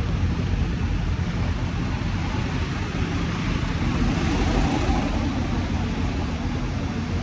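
Steady engine hum and road noise of a vehicle driving at a constant speed.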